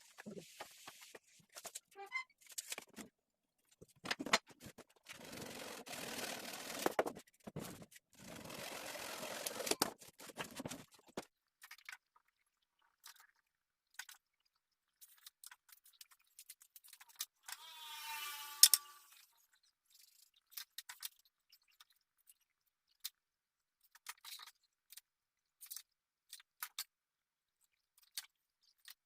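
Workshop hand work on cabinet panels: scattered clicks, taps and scrapes, with two rushing noises of about two seconds each and a brief whine ending in a sharp click near the middle.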